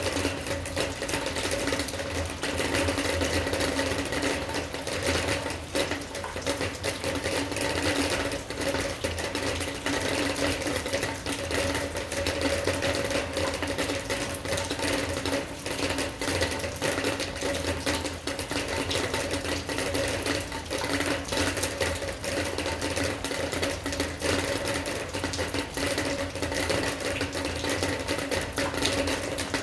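Rain falling on a hard surface: a dense, irregular patter of drop ticks over a steady hum with several held tones.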